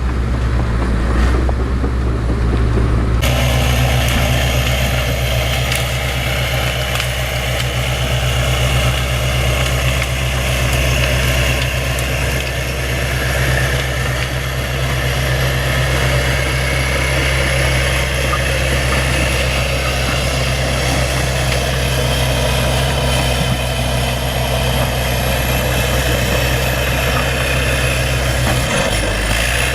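Bulldozer's diesel engine running steadily with a low drone. The sound changes abruptly about three seconds in, with more hiss and clatter above the drone.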